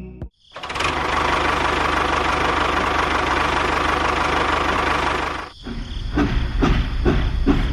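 A small motor runs steadily with a fast, even buzz, then cuts off suddenly about two-thirds of the way in. Irregular knocks and clatter with a low rumble follow.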